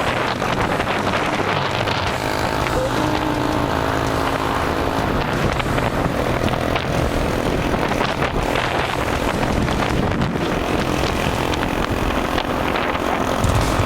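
A 250cc motorcycle engine running at riding speed, its note rising and falling a little with the throttle, over steady wind rush.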